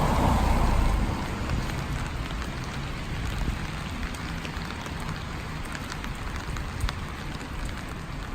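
Steady rain falling, with scattered individual drop ticks. A louder rushing sound swells over the rain at the start and dies away about a second in.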